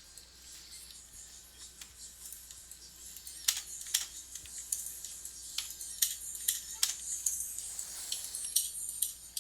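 Typing on a computer keyboard: irregular sharp key clicks that come thicker from about three seconds in.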